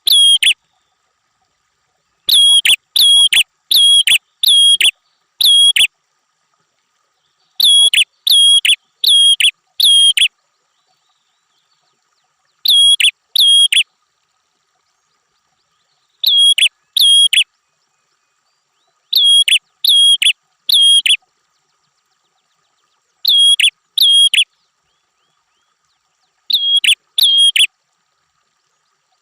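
Prenjak (prinia) calling in short bursts of two to five sharp, identical notes, about two notes a second, each burst followed by a silent gap of a few seconds.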